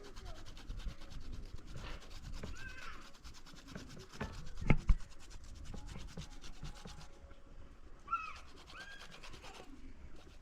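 Fresh ginger being grated by hand, a rapid, even scratching of strokes against the grater, with a couple of sharp knocks about halfway through.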